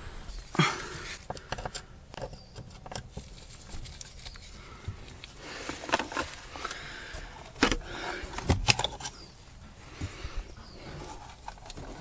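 WRD Spider wire cut-out tool working a windshield loose: irregular clicks, knocks and creaks as the wire is drawn through the urethane adhesive along the top of the glass. The loudest knocks come about half a second in and again between six and nine seconds.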